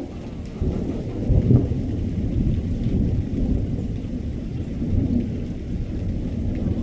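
Thunder rumbling in a rainstorm: a deep, uneven rumble that swells about half a second in, peaks soon after, and keeps rolling.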